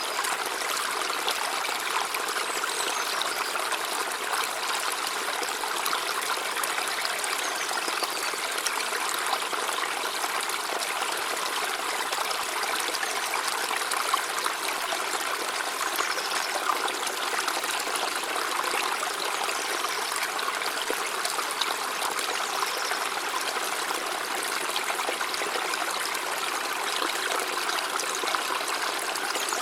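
River water flowing in a steady, even rush with a trickling, babbling quality.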